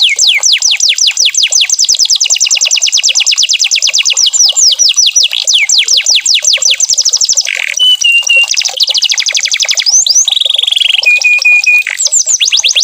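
Domestic canary singing: fast rolls of rapidly repeated downward-sweeping whistles, about ten a second. After the middle it breaks into a few held notes and slower phrases, and the fast roll returns near the end.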